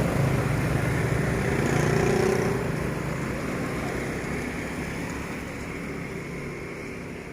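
SE2 passenger train, hauled by a D19E diesel locomotive, rolling across a level crossing. The rumble of the train is loudest for the first couple of seconds, then fades steadily as it moves away.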